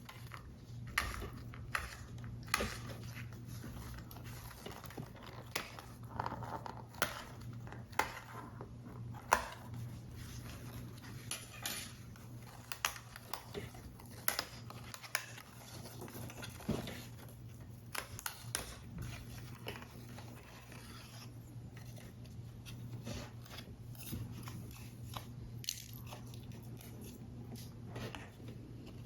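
Paper and card pieces being handled while a paper model is assembled: irregular small clicks, taps and rustles of varying loudness. A low steady hum runs underneath.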